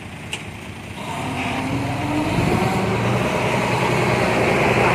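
A heavy diesel engine revving up: it grows louder from about a second in and its pitch rises, then it holds steady.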